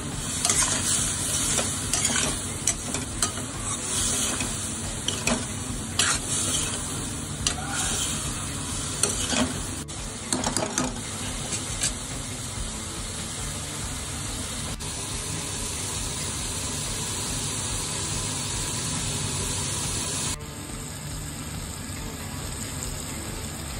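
Green chillies frying in a spiced curd masala in a stainless steel pan, sizzling steadily. A steel spoon scrapes and clicks against the pan during the first half, then stops, leaving only the sizzle, which is slightly quieter near the end.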